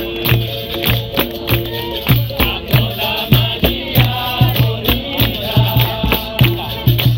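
Capoeira roda music: berimbau with caxixi rattle, pandeiro and hand drum keeping a steady rhythm, with voices singing over it.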